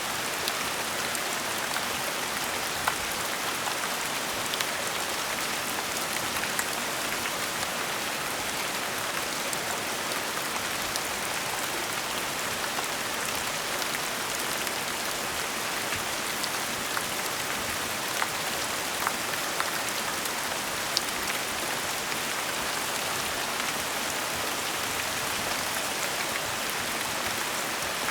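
Steady gentle rain, a continuous even hiss with scattered drop ticks.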